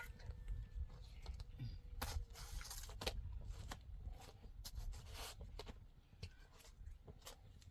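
Irregular scraping, rustling and light knocks of something being handled, over a low rumble.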